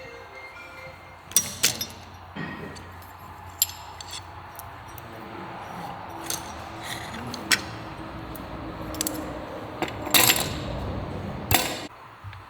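Metallic clinks and clicks, likely from tools and engine parts being handled, over faint background music. There are two louder clattering bursts near the end.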